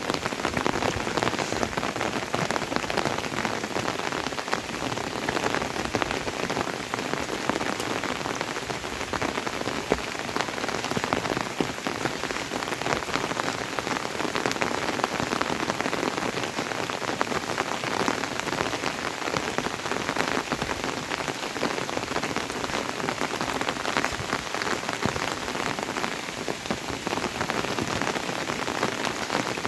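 Steady rain falling, a dense, even patter of drops with no break.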